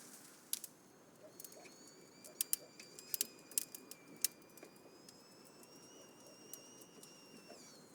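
Scattered sharp pops and crackles of a wood cooking fire, with a faint high whistle held for several seconds that rises slightly, then drops and stops near the end.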